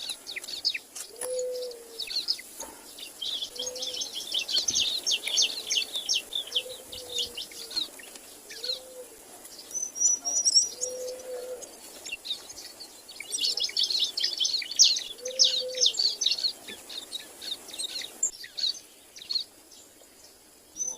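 Birds chirping rapidly in two long busy bursts, with a short high whistled note between them and a low call repeating every second or two underneath.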